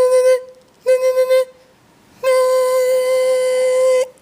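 Car horn sounding three times at one steady pitch: two short honks, then one long honk of nearly two seconds.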